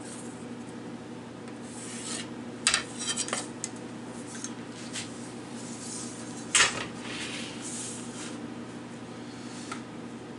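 Workbench handling sounds: a few sharp knocks and short scrapes of tools and wood being moved and set down, the loudest about a quarter of the way in and again past the middle, over a steady low hum.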